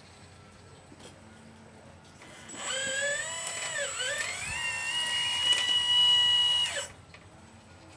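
Hydraulic pump of a 1/12-scale RC Liebherr 954 excavator running for about four seconds with a whine; the pitch dips in the middle, climbs back, holds steady and then cuts off suddenly.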